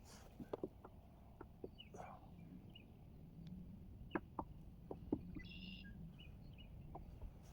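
Faint birdsong: scattered short chirps, with a brief buzzy call about five and a half seconds in, over a low steady background hum. Several light knocks and clicks come in between.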